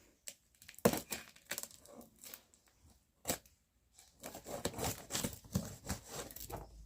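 Parcel packaging being handled and opened: scattered crinkles and sharp snaps, turning into a busier run of rustling over the last few seconds.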